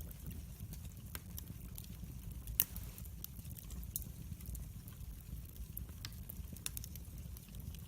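Log fire burning in a fireplace: a steady low rumble of flames under irregular wood crackles and pops, with one louder pop about two and a half seconds in.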